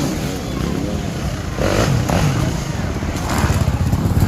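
Dirt bike engines revving and running, the pitch rising and falling, getting a little louder near the end.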